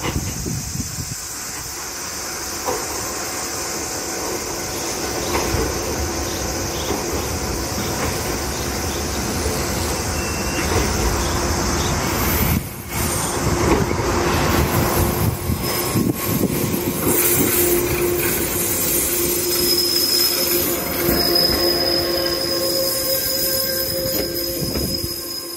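JR West 123 series single-car electric train running into the station, with a steady rumble that grows louder as it comes alongside and slows to a stop. In the second half, several steady squealing tones rise above the rumble.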